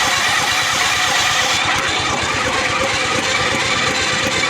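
Hercules W2000's Wankel rotary engine being cranked over by its starter, turning steadily without catching: the engine won't start.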